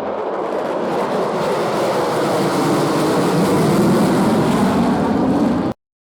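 Jet aircraft flying past: a loud rushing roar that grows louder while its pitch slowly falls, cut off suddenly near the end.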